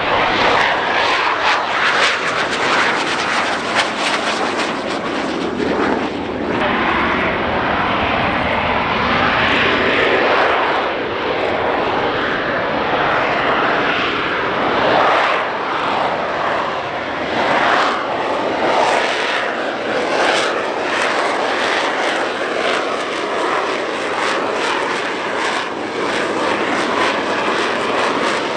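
Royal Navy military helicopters flying a display: loud, steady rotor and turbine noise that swells and fades as they manoeuvre, with fast chopping from the rotor blades.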